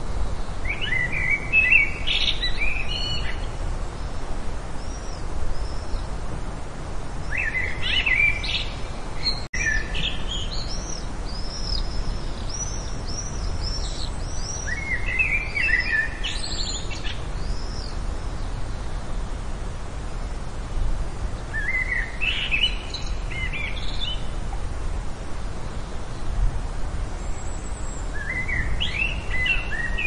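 A wild bird singing short phrases of quick rising and falling chirps, one about every seven seconds, with fainter high calls in between, over a steady low background rumble.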